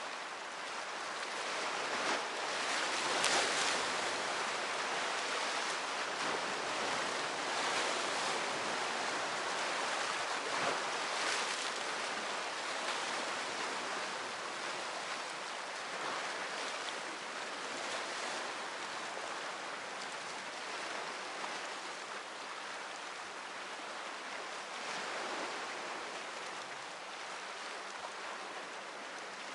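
Sea waves breaking and washing ashore, a steady rushing that swells and eases every few seconds, loudest about three seconds in.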